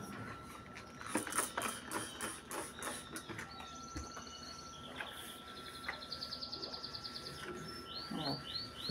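Small birds chirping, with rapid high trills in the middle and a run of short repeated down-slurred notes near the end. A cluster of light clicks and rustles comes in the first few seconds, under a faint steady high tone.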